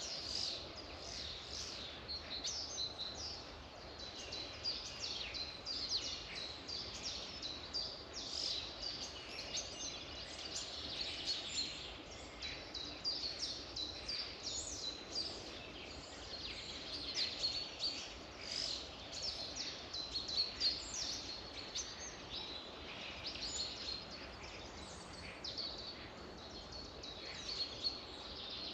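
Many songbirds singing and chirping together: a dense chorus of short high chirps and trills that goes on throughout, over a faint steady outdoor background.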